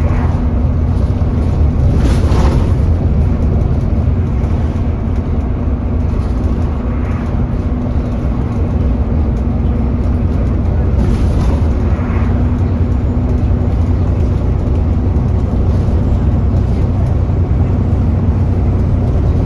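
Alexander Dennis Enviro400 E40D double-decker bus running, a steady low drone with a steady hum over it, the loud 'hoover' of its cooling fan. A couple of brief rushing swells pass about two seconds in and again around eleven seconds.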